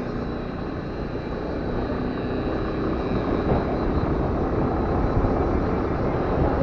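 Steady rush of wind over the microphone with an Aprilia scooter's engine running underneath while riding, growing slightly louder over the few seconds.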